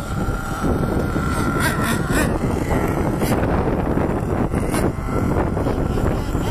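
Small nitro engines of RC monster trucks running at high revs, with a held high engine note in the first couple of seconds, and wind noise on the microphone.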